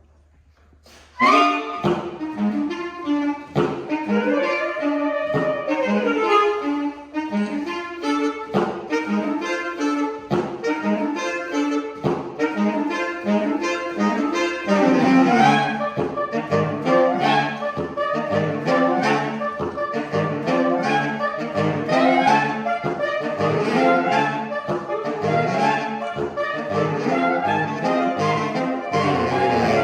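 Saxophone quartet of soprano, alto, tenor and baritone saxophones playing a fast, driving contemporary piece. It comes in suddenly and loud about a second in, with short low notes repeating in a steady pulse under higher lines.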